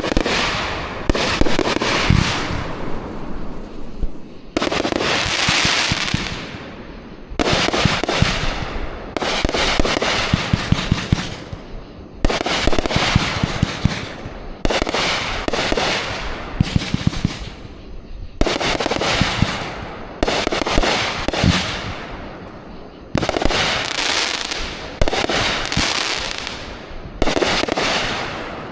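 Fireworks going off in a steady barrage, a new volley every one to three seconds. Each volley starts suddenly as a fast run of pops and crackles, then fades.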